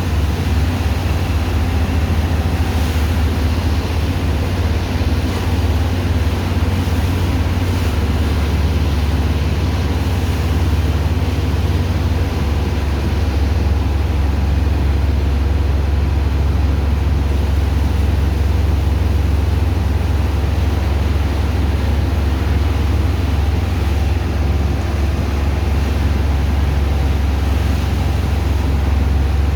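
Heavy engine of a sand-dredging pump machine running steadily under load, a loud deep drone that stays even throughout.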